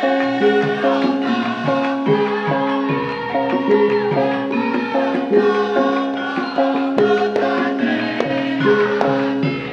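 Live Javanese gending music: a gamelan ensemble plays sustained notes that step through a repeating melody at a steady pulse, with hand-drum strokes between them.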